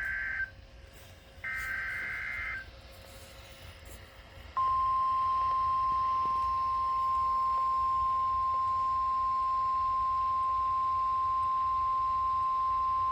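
Weather radio emergency alert: two of the screeching digital SAME header bursts, each about a second long, then the single steady 1050 Hz warning alarm tone starting about four and a half seconds in and holding for about nine seconds. Together they signal that a severe thunderstorm warning is being issued.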